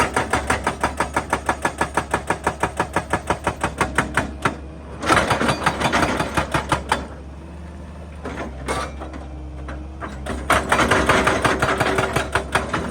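Excavator-mounted hydraulic breaker hammering rock in a rapid even train of strikes, about eight a second, for the first four seconds or so. Two shorter bursts of hammering and crunching follow, with the excavator's diesel engine running steadily beneath.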